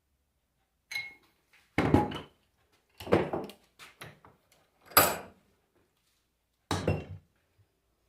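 Metal knocks and clanks as car-alternator parts and tools are handled and set down on a workbench during reassembly, about five irregular strikes, the sharpest one about five seconds in.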